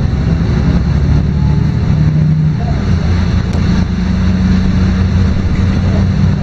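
LiAZ-5292.22 city bus under way, heard from inside the passenger cabin: a steady, loud low engine drone over road noise, its pitch shifting a couple of times. A faint click comes about three and a half seconds in.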